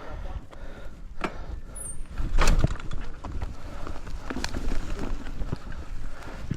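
Mountain bike rattling and knocking over a rough forest trail: scattered sharp clicks and clatters over a low rumble, with one heavy thump about two and a half seconds in.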